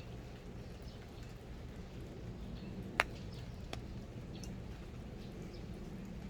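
Outdoor ambience: a steady low background rumble with faint, short high-pitched chirps scattered throughout, and a sharp click about three seconds in.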